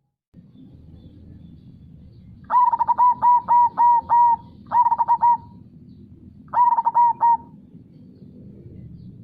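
Zebra dove (perkutut) singing its staccato cooing song in three phrases: a run of about seven quick notes, then two shorter bursts of three or four. Beneath it runs a low steady rush of river water.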